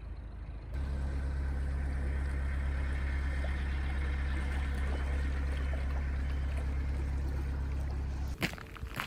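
Narrowboat diesel engine running steadily at cruising speed, a constant low throb. It cuts off abruptly near the end, giving way to sharp clicks and knocks.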